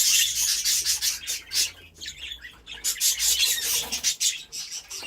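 Budgerigars chattering: a dense, scratchy twittering of rapid high chirps and clicks that carries on throughout.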